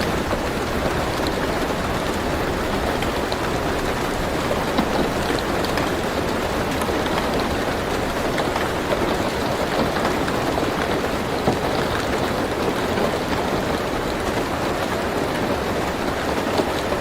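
Steady rain falling on a car's roof and windshield, heard from inside the car: an even hiss with scattered small drop ticks.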